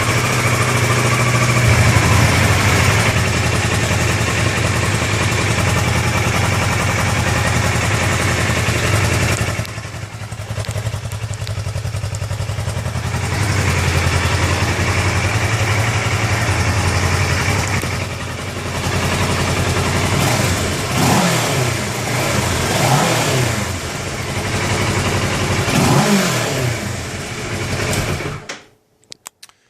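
2013 Kawasaki Ninja 650's parallel-twin engine running through its stock exhaust. It holds a steady idle that dips lower for a few seconds about ten seconds in. Several quick throttle blips follow in the last third, and it stops just before the end.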